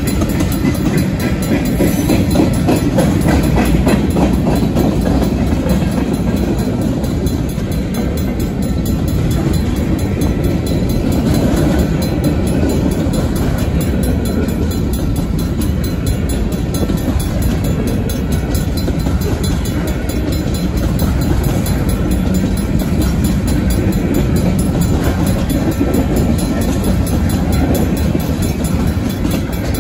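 Freight train tank cars and covered hopper cars rolling steadily past, a continuous rumble of steel wheels on rail with clicking and rattling from the cars.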